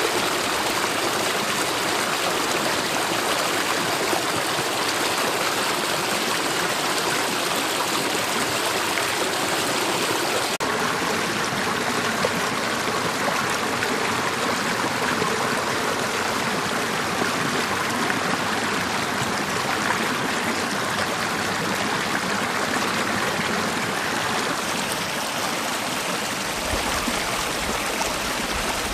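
Mountain valley stream flowing steadily, an even rush of running water with trickling. A low rumble comes in near the end.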